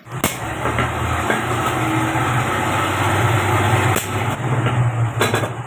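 A large engine running steadily: a loud, low rumble with a noisy hiss above it and a few sharp clicks. It starts abruptly right at the beginning.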